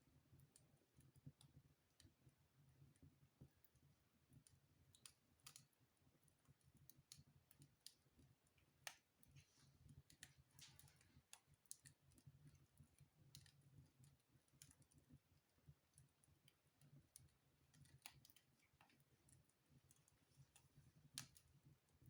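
Faint wood fire crackling in a fireplace: irregular sharp pops and snaps over a low steady rumble of the flames.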